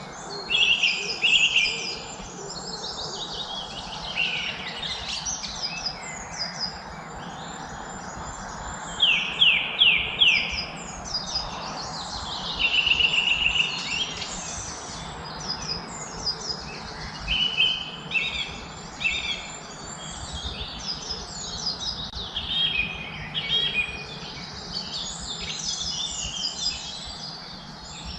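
Several songbirds singing and chirping together, with quick repeated notes and short trills, over a steady background hiss.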